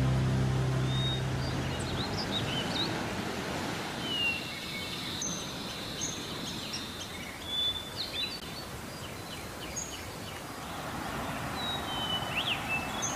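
Birds chirping and calling in short, scattered high notes over a steady rushing background of outdoor ambience.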